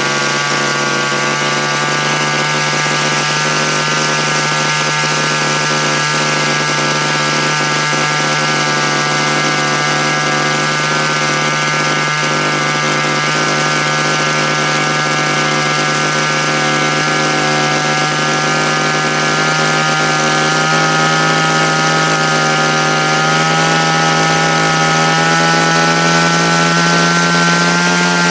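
Raptor 50 radio-controlled helicopter's small gasoline two-stroke engine running steadily, its pitch creeping slowly upward over the last several seconds.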